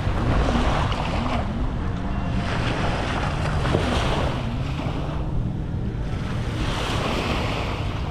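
Sea waves washing up on a sandy beach, breaking in repeated swelling surges, with wind rumbling on the microphone.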